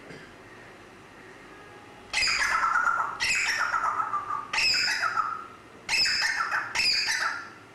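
Grey parrot giving five loud, harsh squawks in quick succession, each sliding down in pitch, starting about two seconds in.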